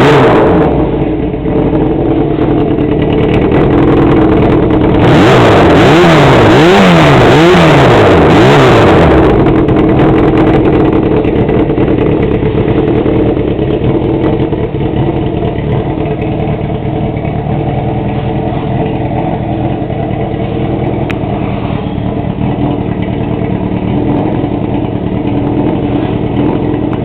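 Honda CB400 Super Four inline-four with a straight muffler, blipped through several revs about five seconds in, then settling to a steady idle.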